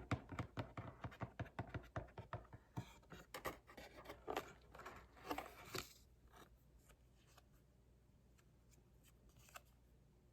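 Hands handling unboxing packaging: a quick run of taps, scratches and scrapes for about six seconds, then near silence with one more click near the end.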